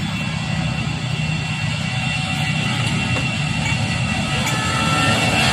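Jet airliner engines at takeoff power: a steady rumble with a thin high whine, growing a little louder near the end.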